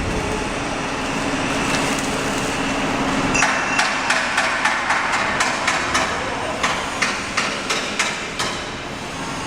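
Hammer blows struck in a steady run, about three a second, for about five seconds, after a few seconds of steady machine running noise with a held hum.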